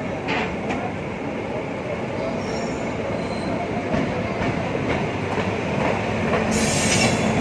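Train rolling along the track, the wheels knocking over rail joints, growing slowly louder, with a short high hiss about six and a half seconds in.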